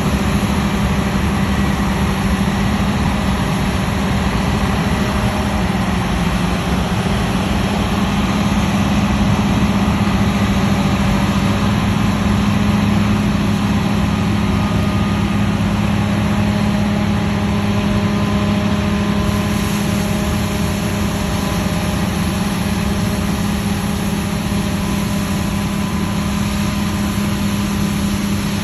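Claas Lexion 770 combine harvester running steadily: a loud, constant engine and machinery drone with a strong low hum.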